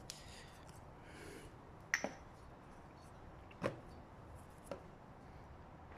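A few light clicks and knocks, two close together about two seconds in and single ones later, with soft rustling between them: the cylinder of a two-stroke scooter engine being handled and fitted over the piston onto the bottom end.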